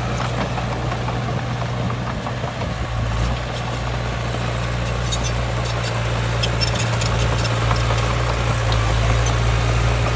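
Heavy diesel engine of earthmoving machinery running steadily with a low drone, a little louder in the second half, with scattered light clicks over it.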